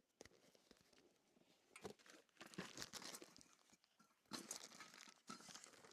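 Faint rustling and crinkling in short, irregular spells.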